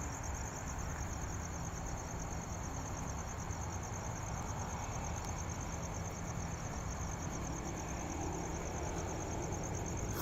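Crickets trilling steadily, a continuous high pulsing chirp, over a low, even rumble of background road traffic.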